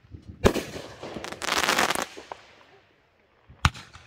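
Consumer fireworks going off: a sharp bang about half a second in, a dense burst lasting about half a second soon after, then another sharp bang near the end.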